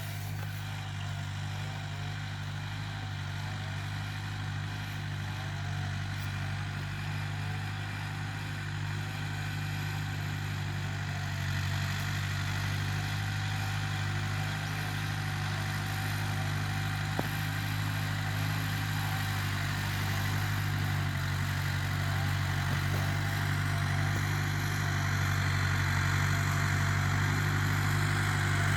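Tractor engine running steadily with a low hum, growing gradually louder.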